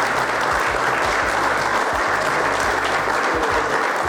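Audience applauding steadily after an acceptance speech.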